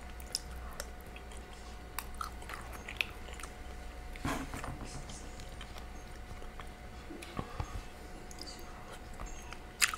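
A person chewing and biting a mouthful of curry chicken and steamed purple cabbage, close to the microphone, with scattered small clicks.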